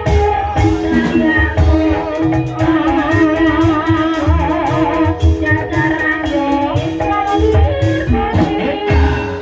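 Banyumasan ebeg gamelan music (gending ebeg): a singer's wavering melody over held pitched instrument tones, with regular drum strokes keeping the beat.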